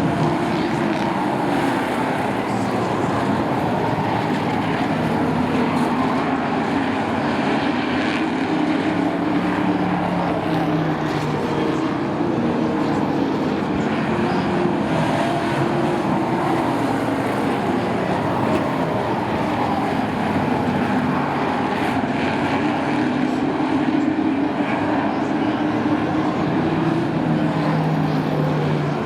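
Several race trucks' engines running together on a short oval track, their pitches rising and falling as they lap.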